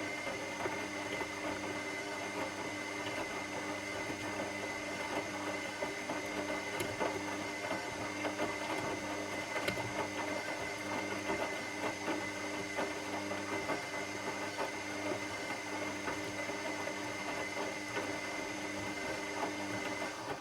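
Washing machine running steadily: a motor hum with a high, even whine over the noise of the drum turning, cutting out suddenly at the very end.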